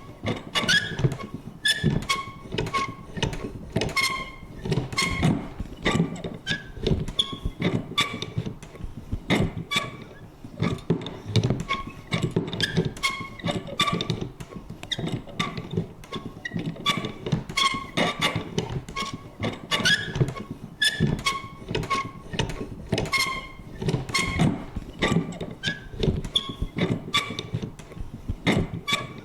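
Vintage paper punch clunking and creaking over and over: an irregular run of knocks and clicks, a few a second, with short high squeaks between them.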